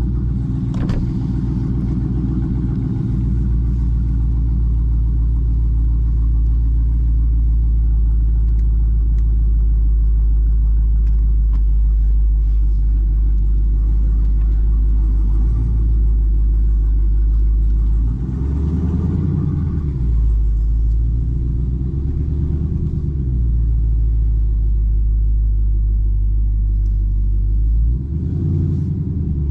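Dodge Charger Daytona 392's 6.4-litre HEMI V8 running at steady low revs while driving. About two-thirds of the way through, the revs rise and fall twice, and they change again near the end.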